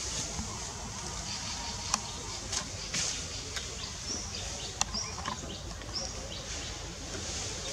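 Outdoor ambience: small birds chirping in short high notes over a low, steady wind rumble, with a few sharp clicks, the loudest about two and five seconds in.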